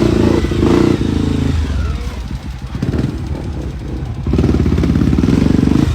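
Off-road motorcycle engine working under throttle. It eases off about a second and a half in, then revs up again about four seconds in.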